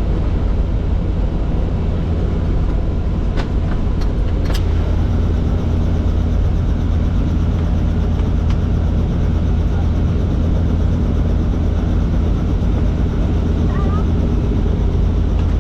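Helicopter engine and rotor running steadily, a loud, even low rumble, with a few faint clicks about three to four and a half seconds in.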